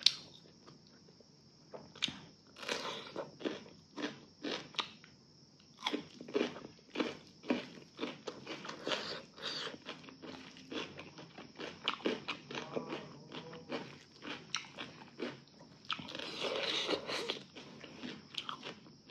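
Close-miked eating sounds: irregular crunching bites and chewing, with the busiest stretch near the end.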